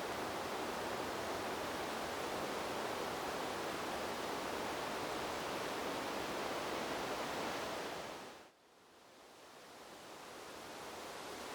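Steady, even rushing noise of a wind-in-the-trees white-noise track. About eight seconds in it drops away suddenly, then swells slowly back over the next few seconds.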